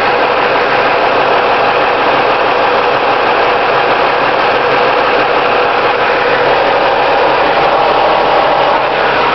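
Garbage truck's engine running steadily, an even drone with a few steady tones in it.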